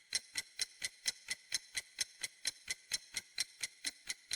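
Clock ticking sound effect, evenly at about four ticks a second, counting down the thinking time before a quiz answer is revealed.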